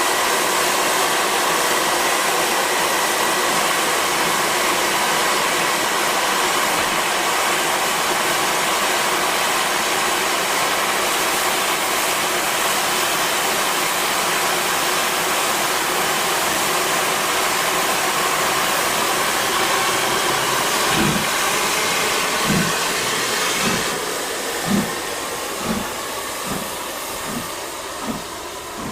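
Steam locomotive with a loud, steady rush of escaping steam. About 21 seconds in, its exhaust beats begin and quicken as it starts to pull away, while the hissing dies down.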